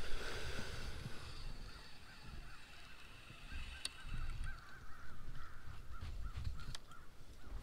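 Faint bird calls, a wavering call repeated over and over, over low, uneven rumbling.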